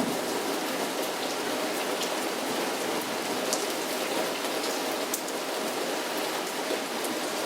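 Heavy rain falling steadily, with scattered sharper drop splashes heard through it.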